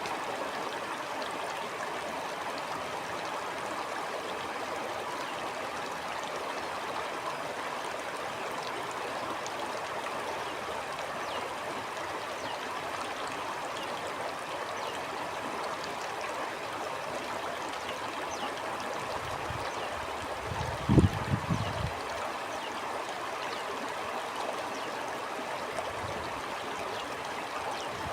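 Stream water flowing steadily, a constant even rush. About two-thirds of the way through comes a brief cluster of a few low thumps.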